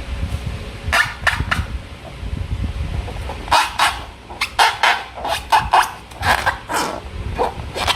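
Slime being worked by hand: low handling noise at first, then a quick series of short wet squelches from about three and a half seconds in.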